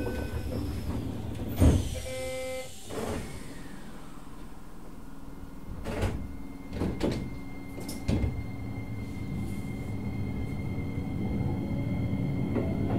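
Inside a Keisei 3000-series commuter train at a station stop: the doors slide shut with a loud thump about two seconds in, followed by a short chime. A few clunks follow, then the VVVF inverter motors start to whine, rising in pitch near the end as the train starts pulling away.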